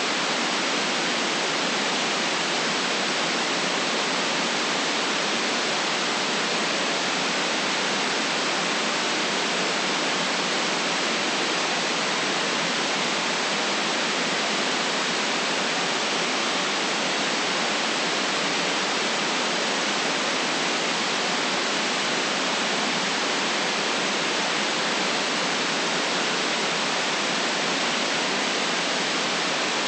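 Steady white noise: an even, unbroken hiss with no rises, falls or separate events.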